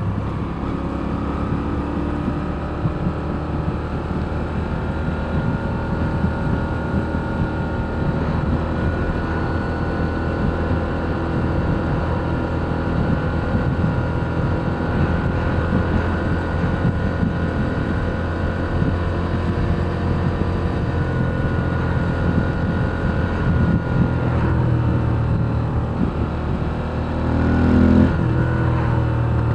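2023 Moto Guzzi V7 Special's air-cooled transverse V-twin running steadily under way, then revving up with a rise in pitch near the end.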